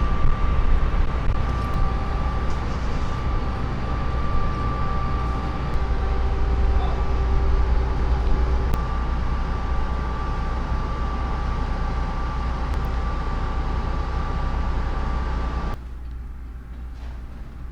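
Train running: a steady low rumble with a faint steady whine over it. The sound drops off sharply near the end.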